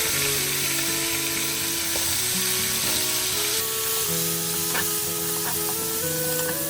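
Cauliflower florets sizzling as they fry in hot oil in a pan, the sizzle growing louder about halfway through, with a few light taps in the second half.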